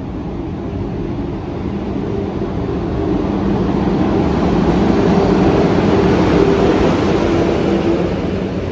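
Locomotive-hauled passenger train pulling into the platform, growing louder as the locomotive approaches. It is loudest about five to six seconds in as the locomotive passes, and then the coaches roll by. A steady hum runs underneath throughout.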